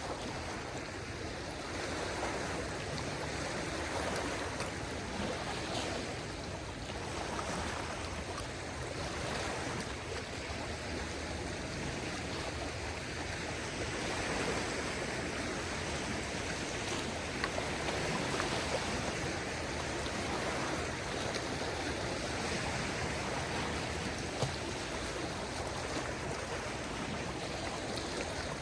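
Gentle waves lapping at the shore: a steady wash of water that swells and eases slowly.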